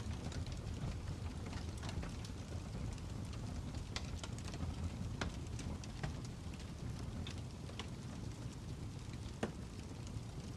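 Fire crackling: a steady low rumble with sharp pops and snaps coming irregularly, several times.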